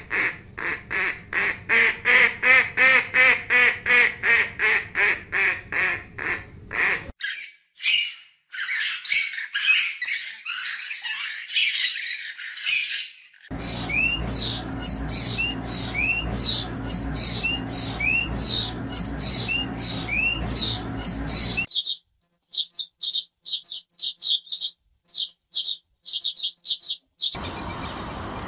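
Birds calling in a run of short clips that cut abruptly from one to the next: first a fast series of loud squawking calls, about six a second, then other birds' chirps and rapid high twittering.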